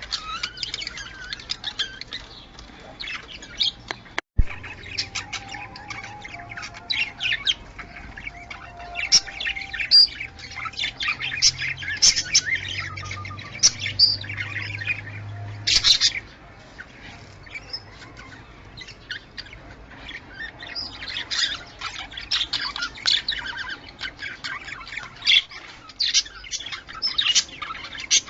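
Budgerigars chattering: rapid, overlapping high chirps and squawks throughout, with a brief break in the sound about four seconds in.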